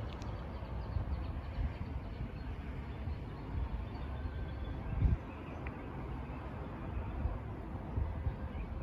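Outdoor ambience dominated by wind rumbling on the microphone, with one brief thump about five seconds in.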